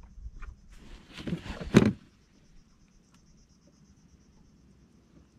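A steady, faint, high insect trill, like crickets, runs throughout. About a second in there is a brief burst of rustling noise that ends in one sharp knock just before two seconds.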